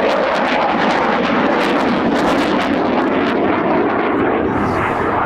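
Eurofighter Typhoon jet fighter in flight, its twin EJ200 turbofan engines running at high power: a loud, steady jet noise with a rapid crackle through it.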